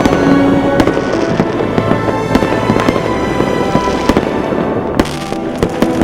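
Fireworks exploding in quick succession: many sharp bangs and crackles, with some close, loud reports. Music with sustained tones plays under them.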